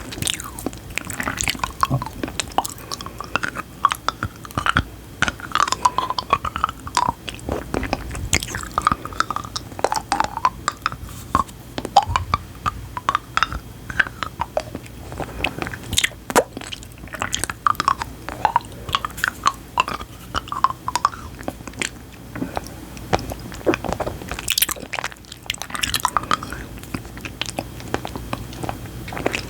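Close-miked wet chewing and clicking sounds in an irregular run of sharp clicks, with short squeaky tones mixed in.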